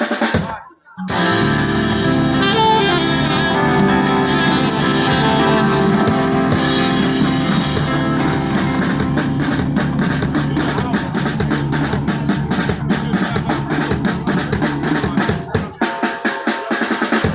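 Live band playing, with a drum kit keeping a steady beat under sustained horn lines. The music drops out briefly just after the start.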